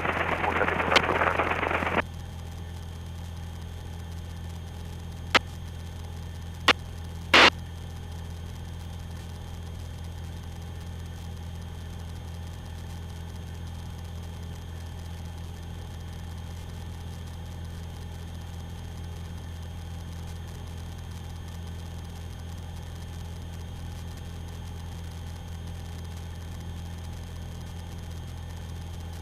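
Light aircraft's engine as a steady low drone heard through the cockpit intercom. For the first two seconds a loud crackling radio hiss covers it, and three sharp clicks come about five to seven and a half seconds in.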